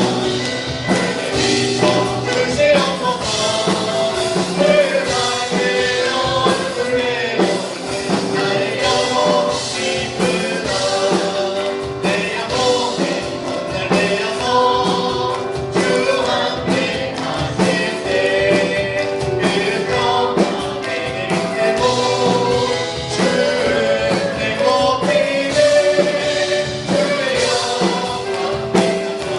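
Christian praise music: a group of singers over a band, with a steady beat.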